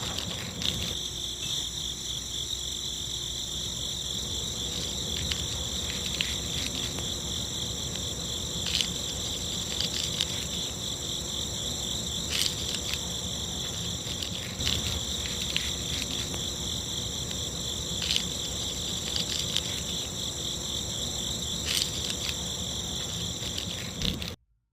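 Steady chorus of insects, cricket-like, with a few soft clicks scattered through; it cuts off abruptly near the end.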